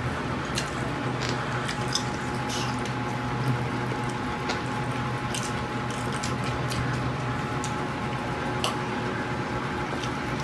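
Wet chewing and mouth sounds of people eating stir-fried pork intestine, with scattered short clicks, over a steady low hum.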